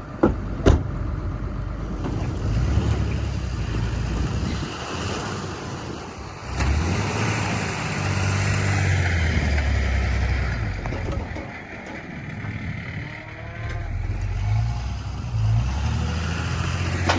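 Truck engine running and rising and falling in speed, with two sharp knocks right at the start.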